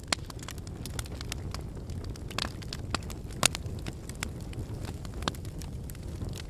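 Wood campfire burning with a steady low roar of flames and irregular sharp crackles and pops of the burning logs, the loudest pop about halfway through.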